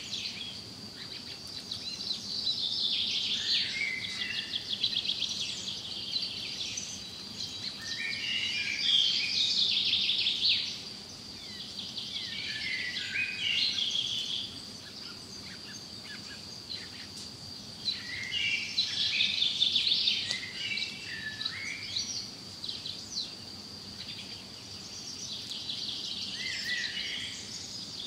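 Green bee-eaters calling in bursts of chirps and rapid trills every several seconds, over a steady high-pitched insect drone.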